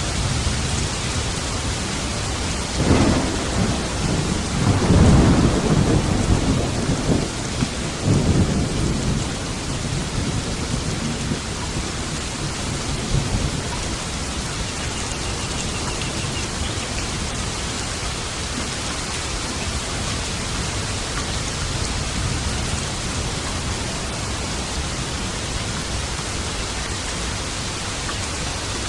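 Steady, heavy rain hiss with a roll of thunder: a low rumble swells about three seconds in, peaks a few times over the next five seconds, then fades, leaving the rain.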